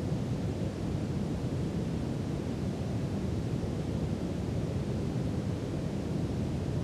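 Brown noise: a steady, deep rushing hiss, strongest in the low end, with no change in level.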